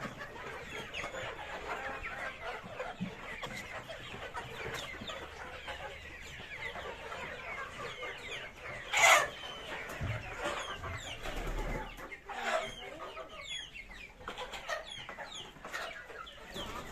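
A flock of Sonali chickens calling: many short overlapping peeps and clucks, with one sharp loud sound about nine seconds in.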